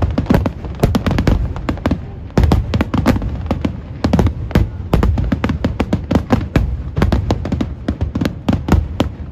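Aerial fireworks bursting in quick succession: a dense run of sharp cracks and pops over a continuous low rumble, with a brief lull about two seconds in.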